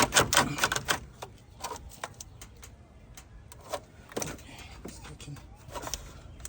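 Hand tools and metal car parts clicking and clanking during work on a car engine, a quick cluster of clicks in the first second, then scattered single knocks.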